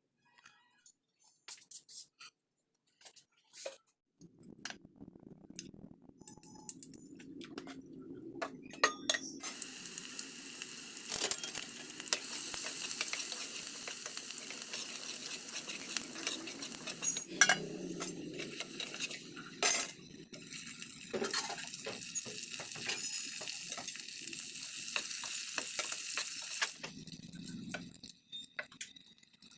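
Food sizzling in hot oil in a pan, with metal utensils clinking and scraping against the pan. Scattered clinks come first; the sizzle starts about nine seconds in and cuts off suddenly near the end.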